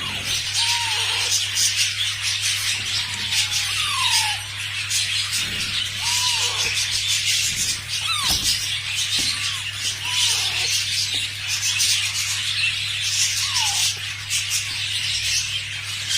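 A group of lovebirds chattering continuously in high, rapid chirps, with a short gliding whistle-like call every second or two. A steady low hum runs underneath.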